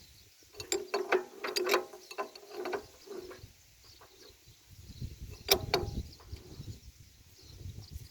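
Metal hand tools clicking and clinking against the valve gear of a two-cylinder Deutz diesel during tappet clearance adjustment. There is a flurry of clinks in the first two seconds, a couple more around three seconds, and a sharper pair about five and a half seconds in.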